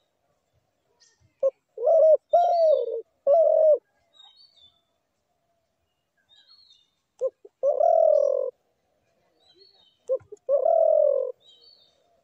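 Dove cooing in three phrases, each starting with one or two short notes and ending in a longer, slightly falling coo: the first about a second in, the others near eight and eleven seconds. Faint high chirps of small birds sound in between.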